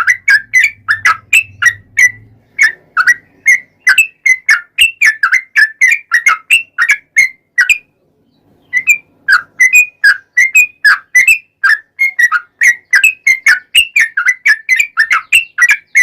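Yellow-vented bulbul (trucuk) singing a long, fast run of short whistled notes, about four a second, with a brief pause about eight seconds in.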